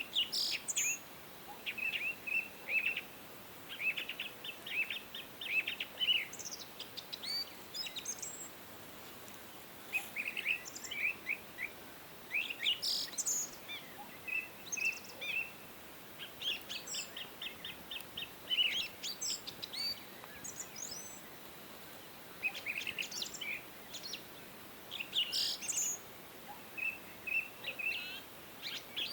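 Several songbirds singing: quick chirps and trilled phrases that come in clusters every few seconds, over a faint steady background hiss.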